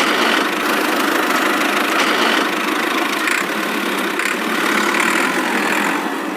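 Small motor of a homemade mini tractor running steadily with a dense, rattling buzz.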